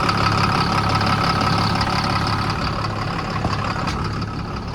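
Tractor engine idling steadily, growing a little quieter near the end.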